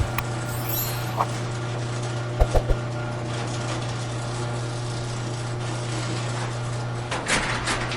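A machine running steadily with a constant low hum, with three quick low knocks about two and a half seconds in and a few clicks near the end.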